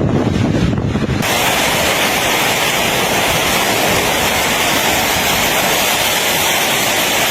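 Storm wind buffeting the microphone, then, about a second in, an abrupt change to a steady, dense hiss of heavy rain and wind.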